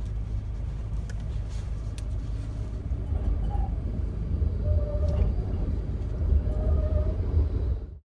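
Low, steady rumble of a tram running, with a faint steady whine above it; the sound cuts off suddenly near the end.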